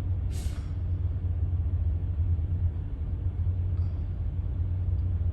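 Steady low rumble of an idling diesel truck engine, with a short hiss about half a second in.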